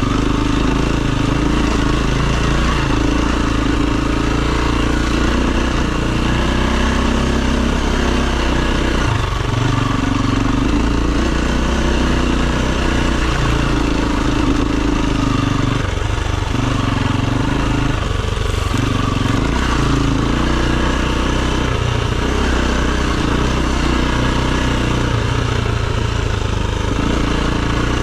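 Enduro dirt bike engine running under changing throttle, its pitch shifting up and down with a few brief drops as the throttle is rolled off.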